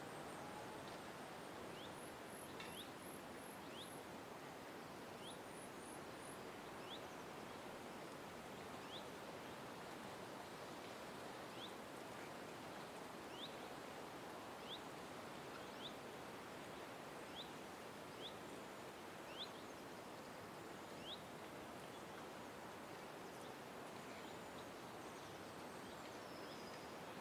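Birds calling outdoors: short upward chirps repeated about once a second, and twice a quick run of very high, thin notes, over a steady background hiss.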